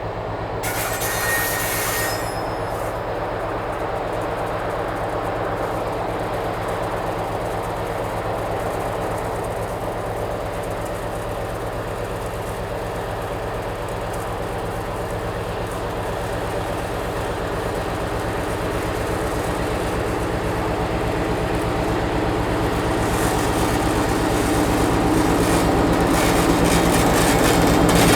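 Diesel freight locomotive running with a steady low engine drone, pulling away from a signal and growing louder. There is a brief high hiss about a second in.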